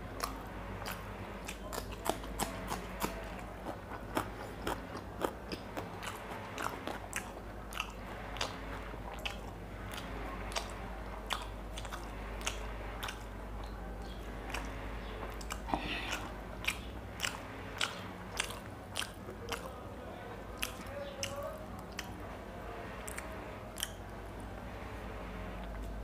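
A person chewing raw green chillies close to the microphone, with many sharp crunches and mouth clicks, a few a second.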